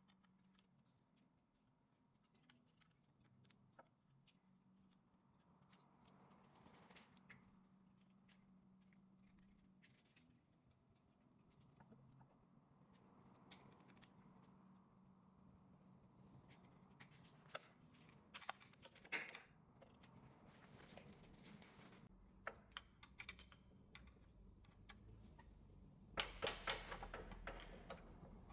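Faint scraping and light ticking of a razor blade being worked into the sealant seam of a Peugeot 1.2 PureTech's oil sump to break it free. Louder clicks come later, and a quick run of rapid clicks comes near the end.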